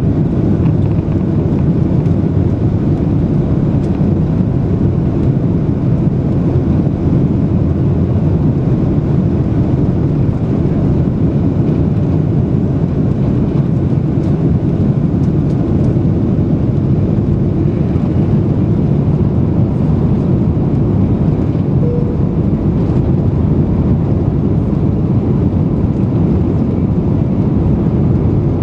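Steady low rumble of an Airbus A330-300's jet engines and airflow, heard from inside the passenger cabin.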